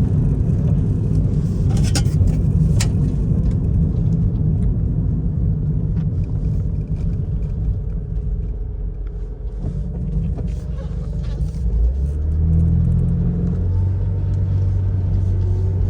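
1999 Honda Civic's four-cylinder engine running, heard inside the cabin as a loud low rumble with a loud exhaust. The note eases off for a few seconds about halfway, then settles into a steadier hum from about three-quarters in.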